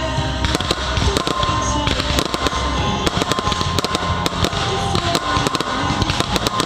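Fireworks going off in quick succession, a dense run of sharp bangs and crackles, heard over loud music.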